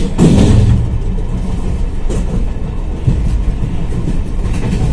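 Running noise of a passenger train coach rolling along the tracks, heard from inside the coach: a steady low rumble with a few clacks of the wheels over rail joints.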